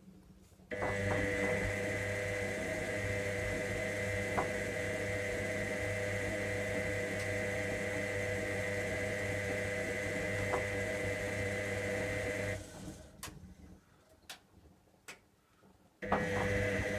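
Electra AWF683 washing machine's motor turning the drum with a steady whine, in the wash tumble of a 95° boil wash: it runs for about twelve seconds, stops for a few seconds with a few faint clicks, then starts again near the end.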